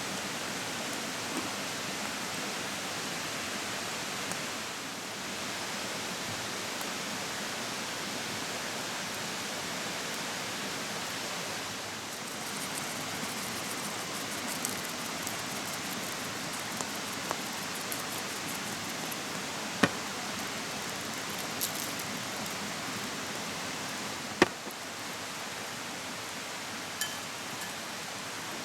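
Steady rushing of a mountain stream, with scattered small crackles and a couple of sharper pops in the second half.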